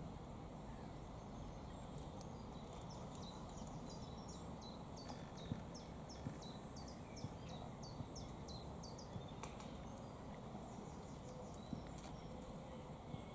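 Faint outdoor ambience: a small songbird sings a quick run of short, high, falling notes from about two seconds in until about ten seconds, over a low rumble, with a few soft ticks.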